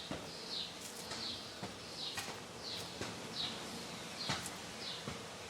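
A bird peeping over and over, short high falling chirps about one every 0.7 seconds, with a few sharp clicks between them.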